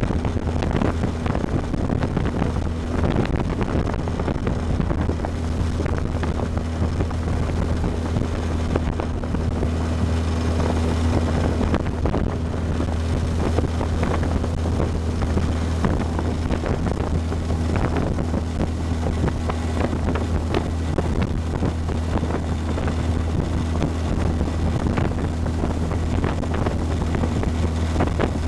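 Motorboat engine running steadily at cruising speed, a constant low hum, with wind buffeting the microphone and water rushing against the hull.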